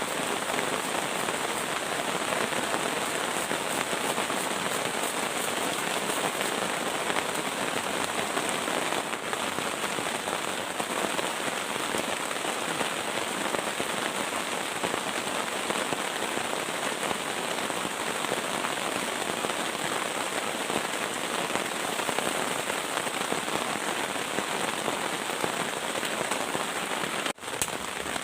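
Heavy rain falling steadily in the forest, a dense even hiss, with a brief dropout near the end.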